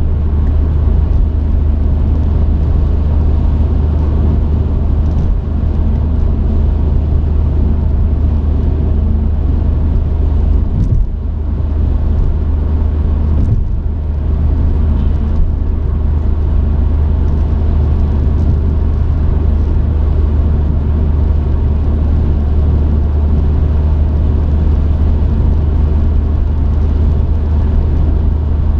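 Truck engine and road noise heard from inside the cab: a steady low drone that dips briefly twice near the middle.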